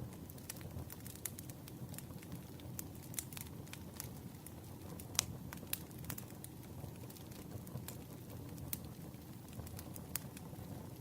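Wood campfire crackling, with a steady low rumble of flames and many irregular sharp pops and snaps; the loudest pop comes about five seconds in.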